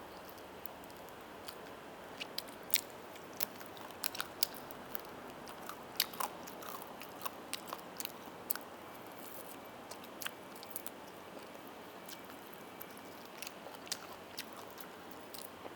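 Close-miked mouth sounds of a person biting and chewing roast chicken, with irregular crisp clicks.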